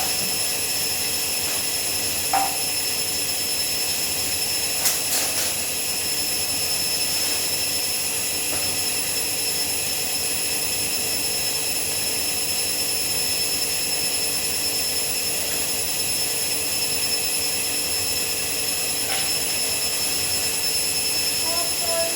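Hoover 7 kg washing machine in its final spin at 800 rpm, the drum and motor running at a steady speed with a steady high whine. Two brief clicks come about two and five seconds in.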